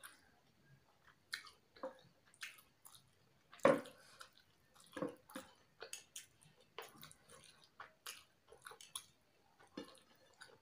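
Close-up mouth sounds of a person eating chicken biryani by hand: irregular wet chewing smacks and clicks, the loudest a little under four seconds in.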